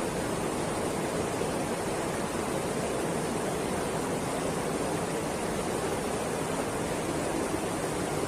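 Rushing water: a steady, even hiss of noise with no swells or breaks.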